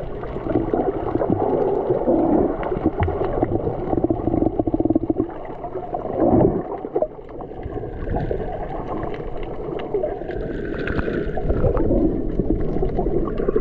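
Wind buffeting the microphone over rushing, gurgling water on a sailboat: a steady, fluttering rumble.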